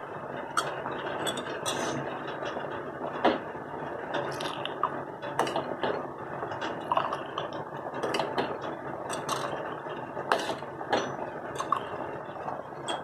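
Heavy rain falling steadily, with irregular drips and taps striking nearby surfaces.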